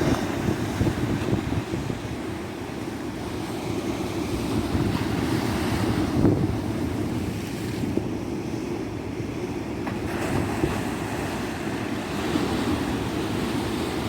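Tropical beach surf: waves breaking and washing in a continuous, gently swelling rumble, with wind buffeting the microphone.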